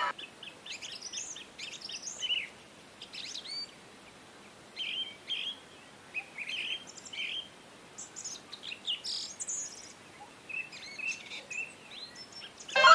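Birds chirping and trilling in short, scattered calls, with a faint hiss beneath.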